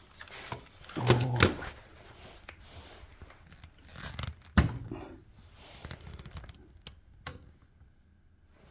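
Scattered clicks and knocks of small parts and tools being handled on a workbench, the loudest cluster a little after a second in and a sharp single click about four and a half seconds in.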